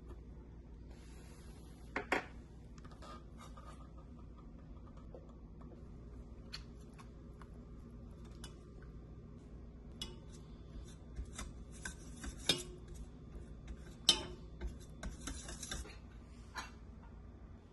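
Dishes and kitchen utensils clinking and clattering in scattered knocks, the sharpest about two seconds in and again about fourteen seconds in, over a steady low hum.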